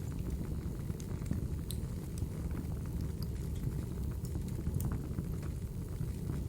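Logs burning in a fireplace: a steady low rumble of the flames with scattered sharp crackles and pops from the wood.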